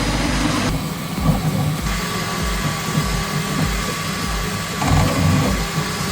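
Desktop 3D printer running a print: stepper motors humming and whirring as the print head moves fast, the pitch shifting every fraction of a second, over steady cooling-fan hiss.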